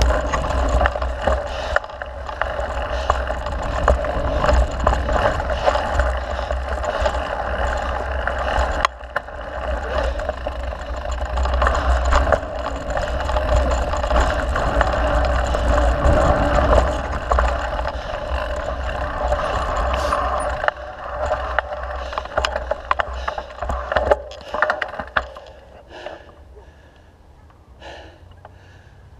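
Mountain bike rolling fast along a dirt trail: steady tyre and wind rush on the microphone with frequent rattles and knocks from the bike over bumps. About 25 seconds in it drops much quieter, leaving only scattered clicks.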